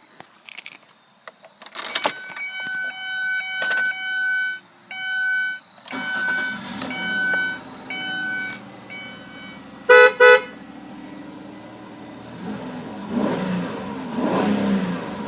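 2003 Mazda Tribute V6 being started: the dashboard warning chime repeats while the engine cranks and catches about six seconds in. Two short horn honks come at about ten seconds, then the V6 idles and is revved near the end.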